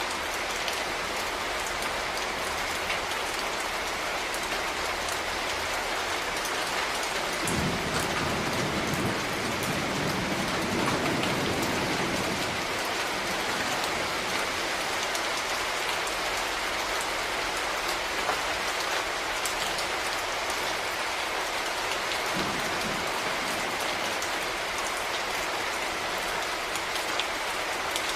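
Steady rain falling, an even hiss of drops on surfaces. A low rumble rises under it for a few seconds about a third of the way in.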